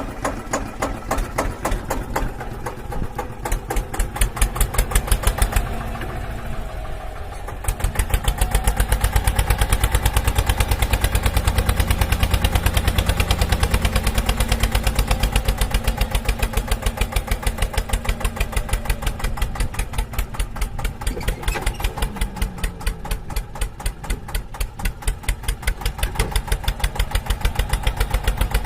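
Mini tractor engine sound, a steady chugging of about four beats a second like a diesel tractor idling. It grows heavier and deeper from about eight seconds in.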